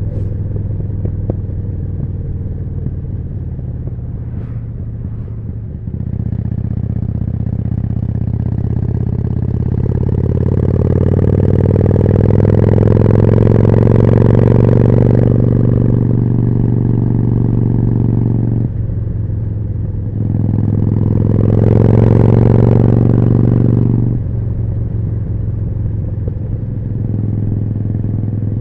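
Harley-Davidson Forty-Eight's 1200 cc V-twin running through a Jekill & Hyde exhaust while riding. It is on light throttle at first, then opens up about six seconds in and pulls harder for several seconds. It drops off sharply and picks up again for another hard pull, then eases back to a steady, lighter note near the end.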